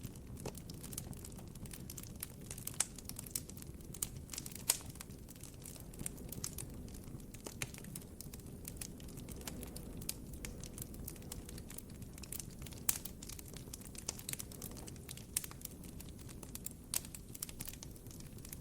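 Wood campfire crackling: irregular sharp pops and snaps over a steady low hiss of the flames, with the strongest pops about 5 and 13 seconds in.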